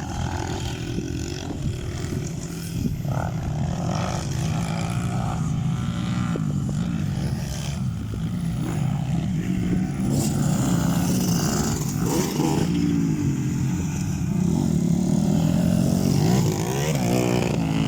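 Motocross dirt bike engines revving, the pitch repeatedly climbing and falling as the throttle opens and closes, growing a little louder toward the end.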